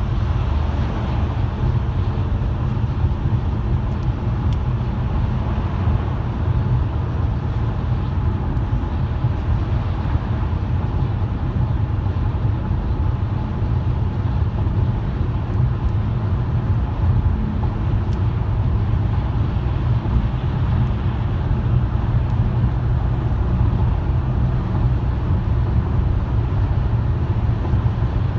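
A car driving at a steady pace: a continuous low rumble of tyre, road and engine noise that holds even throughout.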